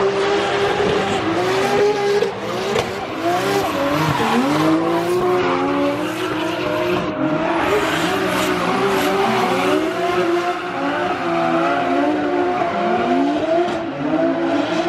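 Drift cars on track, their engines revving up and down over and over with tyres squealing.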